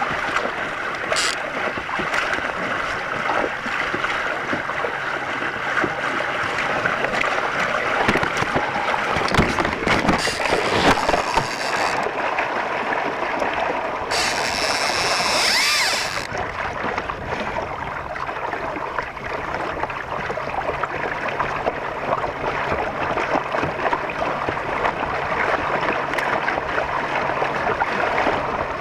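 Water rushing and splashing against a kayak's hull as it moves through choppy water, with a louder hissing splash about halfway through.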